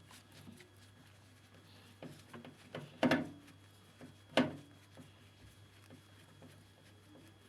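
Screws being taken out of a washing machine's metal front panel: faint scattered ticks of the screwdriver and hands working, with two sharp knocks, one a little after three seconds in and one about four and a half seconds in, over a faint steady hum.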